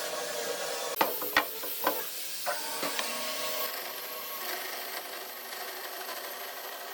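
Woodworking sounds: steady scraping and rubbing on wood under a faint steady hum, with five or six sharp wooden knocks between one and three seconds in.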